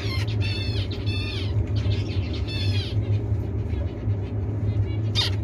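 Zebra finches calling: a run of short, nasal, repeated calls, several a second, with a louder call near the end, over a steady low hum.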